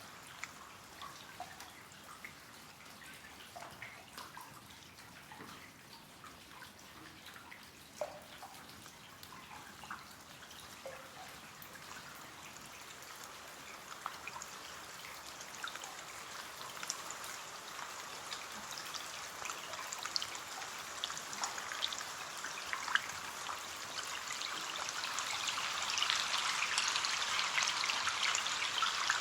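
Rain on a window pane: a steady patter with scattered individual drops tapping, building heavier and louder over the second half.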